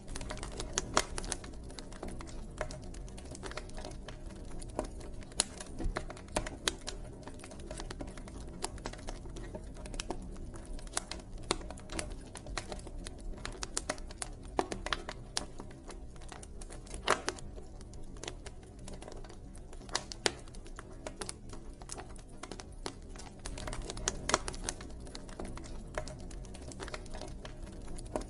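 Campfire crackling: irregular sharp pops and snaps of burning wood, some much louder than others, over a low steady rumble of the flames.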